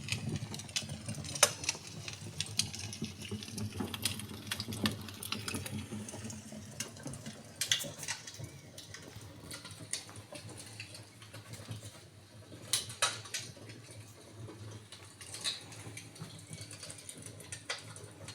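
Wood fire burning with a steady crackle and a sharp pop every few seconds.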